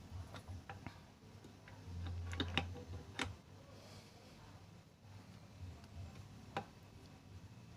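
Scattered clicks and light taps of sewing machine parts being handled and adjusted, with a short low hum about two seconds in.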